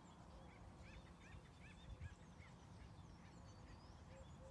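Near silence with faint bird calls: a quick run of about six short arching calls between about one and two and a half seconds in, with thin higher chirps scattered through. A soft low bump about two seconds in.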